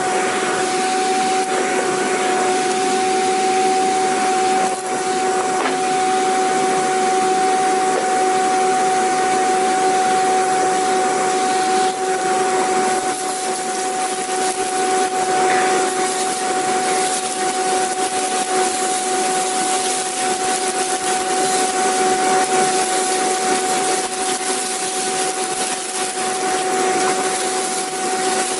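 Vacuum cleaner running steadily, a continuous rushing of air with a steady motor whine held at one pitch.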